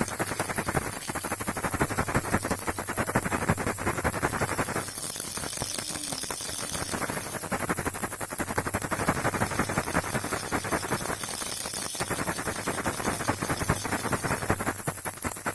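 Baby rattle being shaken continuously, a dense stream of small rattling clicks with short lulls about 1, 5 and 12 seconds in.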